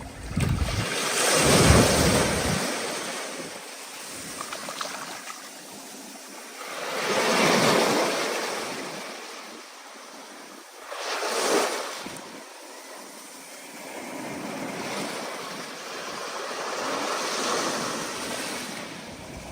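Ocean waves surging and washing in, rising and falling every four to five seconds, with wind. The first surge is the loudest.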